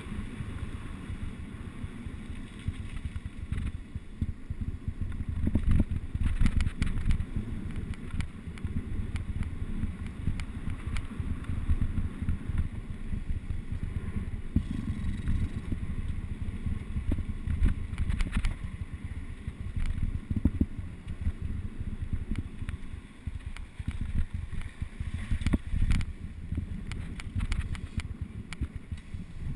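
Mountain bike riding downhill over rough trail: wind buffets the microphone in a heavy low rumble, with frequent knocks and rattles from the bike and tyres.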